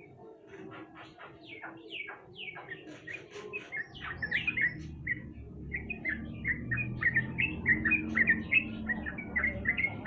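Yellow-vented bulbul (trucukan) song: a run of short, quick chirping notes that grows denser and faster after about four seconds. A low steady hum sits underneath from about four seconds in.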